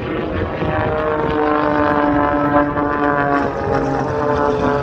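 Aerobatic light aircraft's piston engine and propeller droning as it passes, the note falling slowly in pitch.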